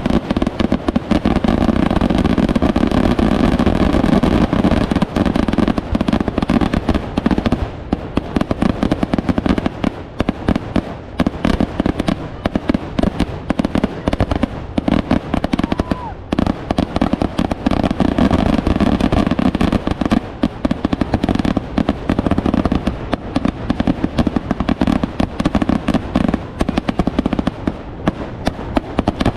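Kerala daytime fireworks (pakalvedikkettu) going off in a continuous barrage: shells and crackers bursting so closely together that the bangs run into one long rattle. It thins briefly about a third of the way in, then builds again.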